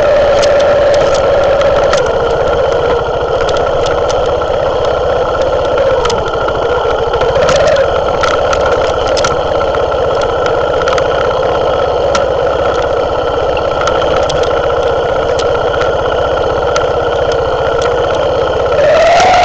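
Herald Classic motorcycle engine running steadily at low revs down a steep, stony track, with frequent short clicks and knocks from the rough ground. The revs rise briefly and fall back twice, once midway and once near the end.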